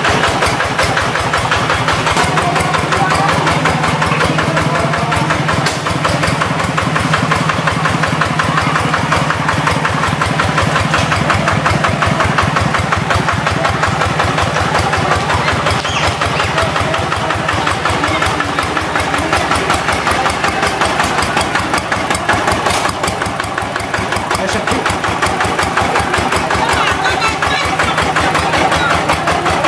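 The engine of a brand-new Quick G3000 Zeva hand tractor runs steadily with an even, rapid firing beat while it is being run in.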